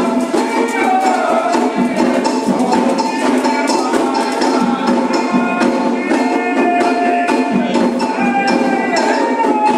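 Candomblé ritual music: voices singing over fast, dense percussion that keeps a steady rhythm.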